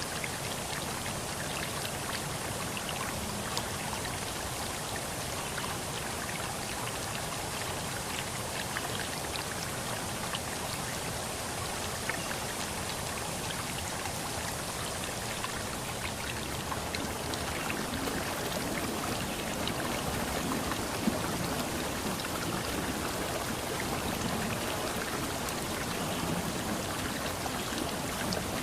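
River stream flowing: a steady rush of water with many fine, close splashes.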